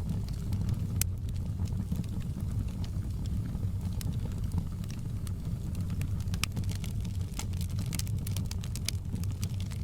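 Wood fire crackling, with sharp pops scattered throughout and coming more thickly in the second half, over a steady low rumble.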